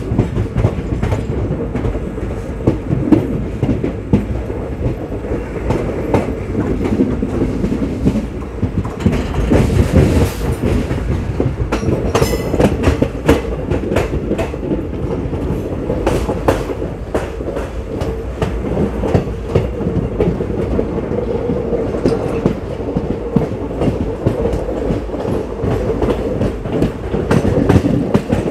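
Indian Railways ICF passenger coach running along the track: wheels clicking over rail joints in an ongoing clickety-clack over a constant rumble, with a steady hum.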